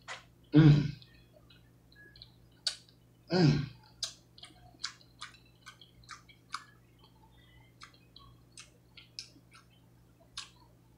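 Close-miked chewing of a forkful of cheesy chicken and broccoli, with many short wet mouth clicks and smacks. Two brief hummed voice sounds come about half a second and three and a half seconds in.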